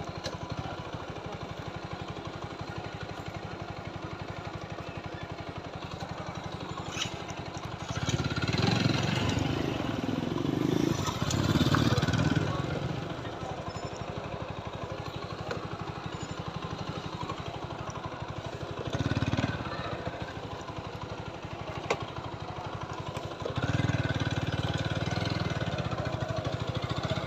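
Single-cylinder engine of a TVS Apache 4V motorcycle running with a steady low pulse. It gets louder as the throttle opens about eight seconds in, briefly again later, and once more near the end.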